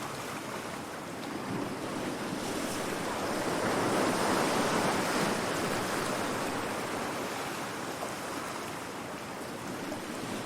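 Calm sea waves washing on the shore, one wave swelling to a peak about four seconds in and then easing off, with some wind on the microphone.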